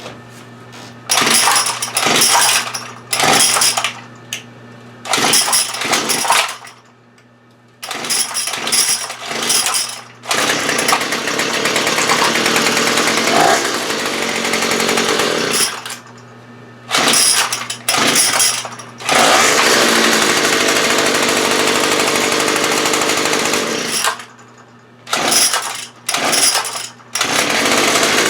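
Small two-stroke engine of a BL110 being started: it fires in short bursts several times, runs for a few seconds, dies, and catches again. This stumbling, stop-start running shows it still needs tuning.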